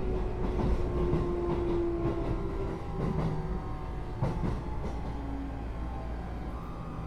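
Keio 8000 series electric train running, heard inside the car above its GTO-VVVF main controller: steady wheel-and-rail rumble under several thin inverter and traction-motor tones, with a few sharp clicks from the track.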